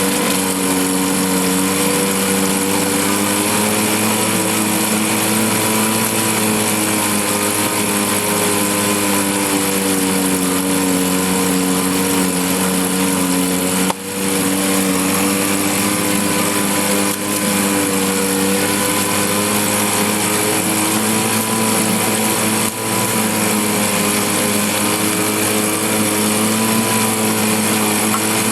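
1954 Johnson CD-10 5.5 hp two-cylinder two-stroke outboard motor running steadily in a test barrel. Its pitch wavers slightly, and its loudness dips briefly three times.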